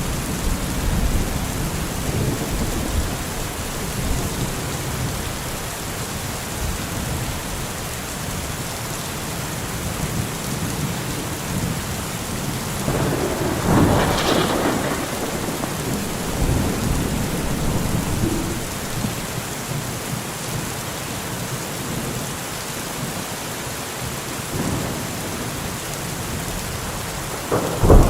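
Steady rain during a thunderstorm, with thunder rumbling low. The thunder swells for a couple of seconds about halfway, and a sharp, loud clap comes at the very end.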